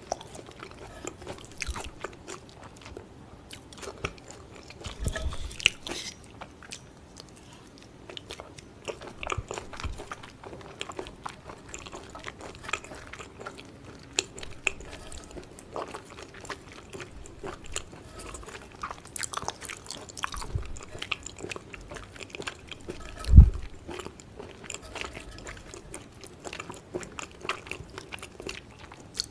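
Close-miked chewing and biting of yukhoe, Korean raw beef tartare, with wet mouth sounds and short clicks of chopsticks against a slate plate. One dull low thump late on is the loudest sound.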